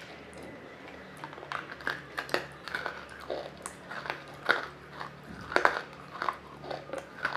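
Chewing a water-soaked piece of roasted nakumatt: a run of sharp, irregular wet crunches and crackles, starting about a second in.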